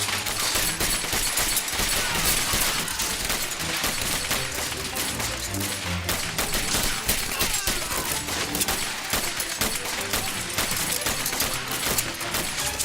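Sustained gunfire: many rapid shots overlapping without a break, a film gunfight sound effect.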